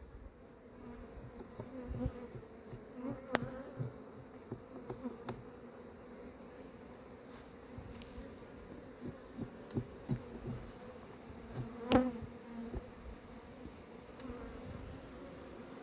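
Honeybees buzzing around an opened hive, a steady hum that holds the same pitch throughout, broken by a few sharp clicks or knocks, the clearest about three seconds in and near twelve seconds.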